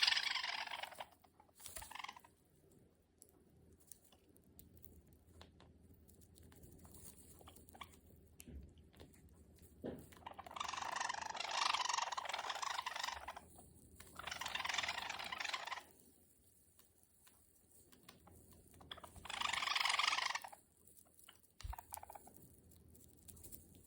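A pet bird pecking and chewing at a treat: three bursts of crunching, about ten seconds in, around fourteen seconds and near twenty seconds, with scattered small clicks of its beak between them.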